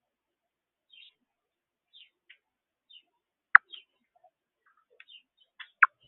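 Small birds chirping at a bird feeder, with short high chirps about once a second. Two sharp, louder clicks come about halfway through and near the end.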